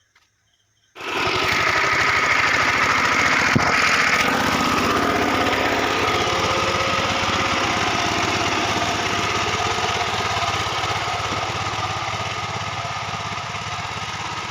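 VST Shakti 130DI power tiller's single-cylinder diesel engine running steadily on its trial run after the gearbox rebuild, coming in abruptly about a second in.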